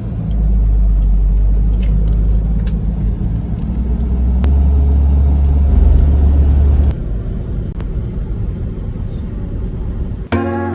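Steady low rumble of a moving vehicle, heavier for about the first seven seconds and then easing, with a few light clicks. Music comes in just before the end.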